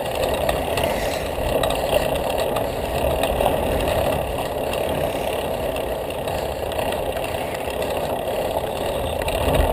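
Steady wind rumble on the microphone of a camera riding along on a bicycle at speed.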